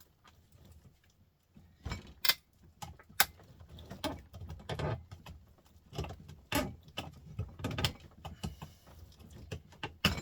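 Irregular metallic clinks, knocks and clatter as a small printer motor is handled and set into a bench vise for taking apart. It starts about two seconds in, with a few louder knocks among the lighter rattling.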